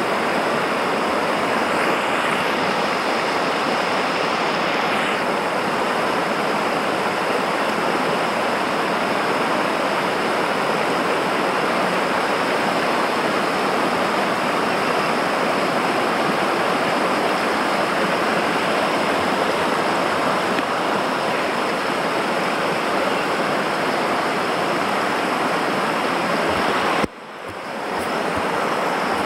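Rushing river water, a steady dense roar of rapids. It drops out suddenly about 27 seconds in and swells back within a second.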